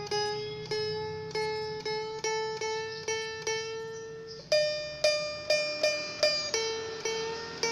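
A cak keroncong, a small four-string keroncong lute strung with thin steel guitar strings, being tuned: one string is plucked about three times a second while its pitch slowly rises as the peg is turned. About halfway through, the plucking moves to a higher note, then to a lower one near the end. The strings are new and still stretching, so they need tuning several times.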